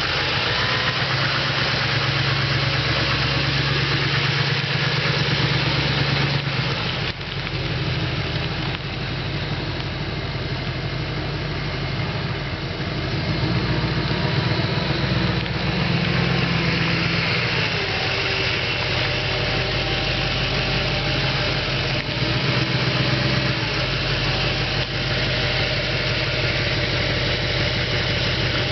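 A 2011 Chevrolet Silverado 3500HD service truck's engine idling steadily, its pitch shifting slightly a couple of times.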